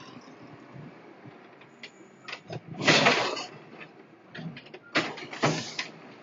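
Garbage truck at work: a low engine rumble with scattered clicks and knocks, and two louder, short noisy bursts about three and five seconds in.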